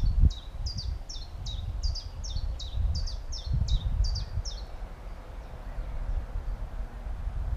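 A small songbird singing a run of about a dozen quick, high, down-slurred notes, about three a second, which stops about four and a half seconds in. Low gusts of wind buffet the microphone beneath it.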